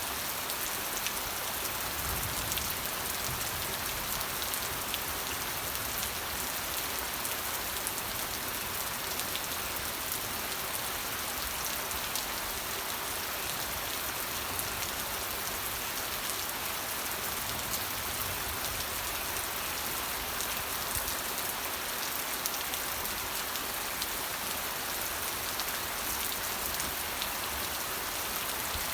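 Steady rain falling and pattering on a surface, an even hiss thick with fine scattered drop ticks, unchanging throughout.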